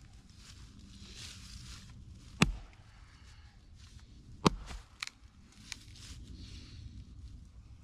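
Axe strikes splitting log sections: two sharp cracks about two seconds apart, followed by a few lighter knocks.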